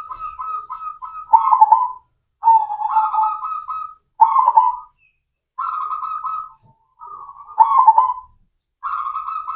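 Zebra dove (perkutut) cooing: a run of short, trilled coo phrases, one after another, with brief pauses between them.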